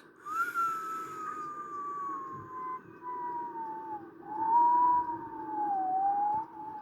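Dennis Trident ALX400 double-decker bus drivetrain whine, a single tone falling slowly in pitch with small wavers as the bus slows, over a steady low engine hum.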